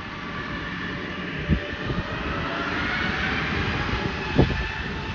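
Airbus A320 airliner's jet engines at takeoff power, a broad rush with a faint whine over it, growing louder toward the middle. Two brief low thumps stand out about a second and a half and four and a half seconds in.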